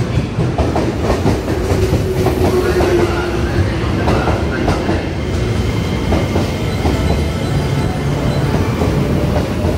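JR West electric train pulling into the platform, its wheels clicking over rail joints as it passes, with a falling whine as it slows. The clicks thin out in the second half, leaving a steady low hum as the train comes to a stop.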